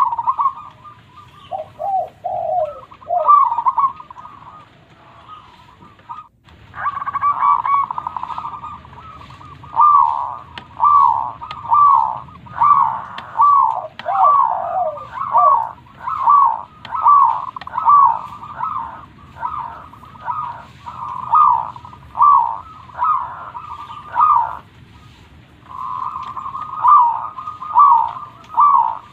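Zebra dove (perkutut) cooing: a rolling trilled note, then a long run of quick falling coos at roughly two a second, with a brief break about six seconds in and the rolling note again near the end.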